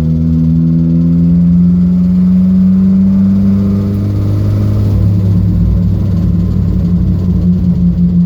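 Datsun B210's engine running under load, its pitch rising slowly over the first three seconds and then holding roughly steady.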